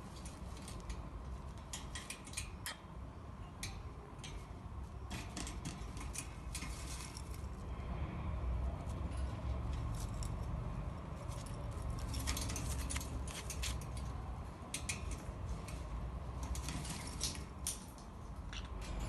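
Lovebirds giving clusters of short, sharp high chirps several times, over a low steady rumble.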